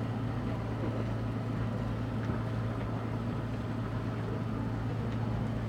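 Boat engine running steadily with a low, even hum, the boat still waiting to depart.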